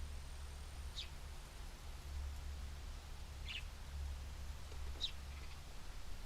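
Three short, high bird chirps a second or two apart, over a steady low rumble.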